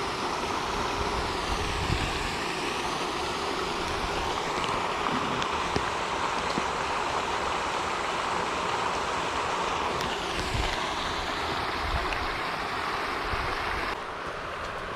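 Pond fountain spray splashing back onto the water in a steady rush, dropping a little in level near the end.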